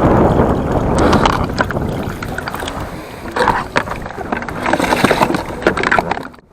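Water splashing and sloshing around a small foam boat, with wind buffeting the microphone and scattered sharp clicks and splashes.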